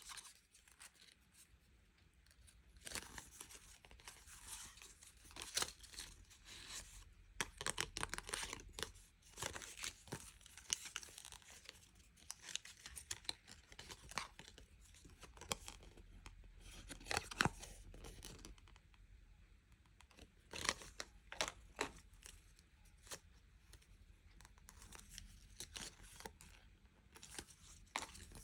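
Packaging being torn open and crinkled by hand, in irregular bursts of tearing and rustling with sharp clicks and quieter gaps between.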